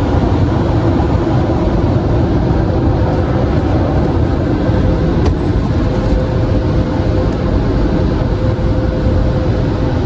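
Steady, loud mechanical noise, heavy in the low end, with a faint steady hum running through it.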